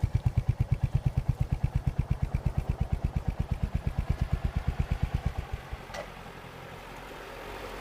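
Royal Enfield Hunter 350's single-cylinder engine idling with an even thump of about ten beats a second. It is switched off and dies abruptly about five and a half seconds in, followed by a single click, and then only a faint steady hiss.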